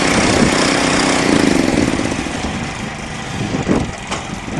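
Small garden tractor engines running hard, their pitch rising slightly before the sound falls off in level, with a couple of short knocks near the end.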